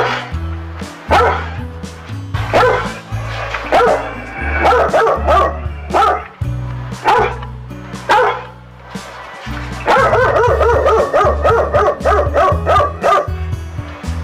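A dog barking in single sharp barks about once a second, then, from about ten seconds in, a fast run of high-pitched yips, over background music.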